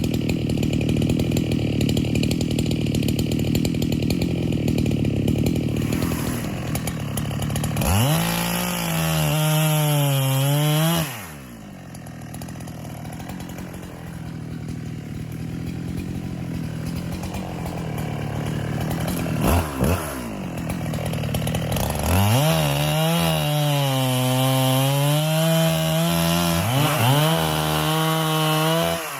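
Neotec NH895 two-stroke chainsaw cutting white oak. It runs hard and steady under load, revs higher with a wavering pitch about eight seconds in, then drops suddenly to idle at about eleven seconds. After a short blip of throttle around twenty seconds it revs high again from about twenty-two seconds and falls off near the end.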